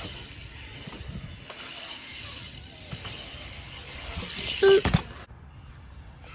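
BMX bike rolling on wet pavement: a steady hiss with a freewheel ticking. About four and a half seconds in comes a short pitched squeal or call and a sharp thud, then the sound cuts off abruptly.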